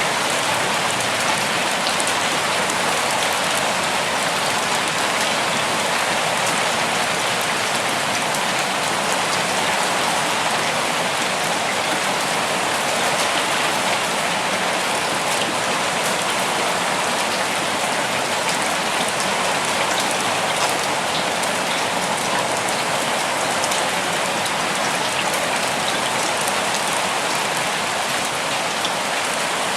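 Steady rain falling, a dense even hiss with fine pattering drops.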